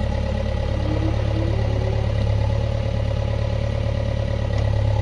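Heavy diesel engine of a backhoe loader or tractor running steadily at low revs: a deep, even hum that grows a little louder near the end.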